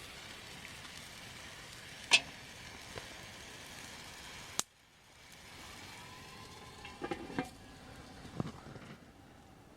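Food sizzling in a pan over a campfire, with one sharp click about two seconds in. The sizzle cuts off abruptly halfway through. A few knocks and clinks follow.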